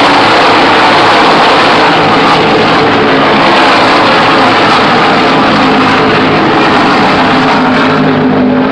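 A pack of NASCAR stock cars racing past at full throttle, many V8 engines together at a very loud level, their pitch sliding down as they go by. The highest part of the sound fades near the end as the cars move away.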